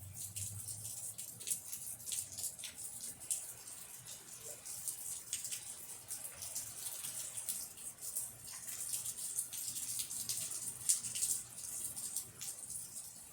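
Rain falling, a steady hiss with many separate drops tapping close by.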